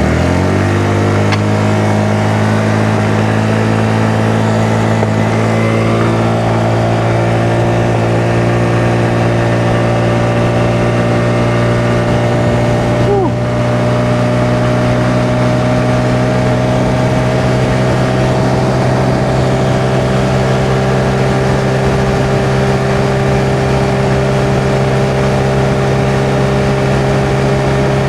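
Honda Navi's small single-cylinder engine running under steady throttle while being ridden, its pitch climbing quickly in the first second, then rising slowly and evenly, with a brief dip about halfway through.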